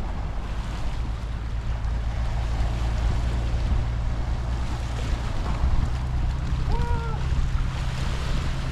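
Wind rumbling on the microphone over waves washing on shore rocks, with a brief pitched call about seven seconds in.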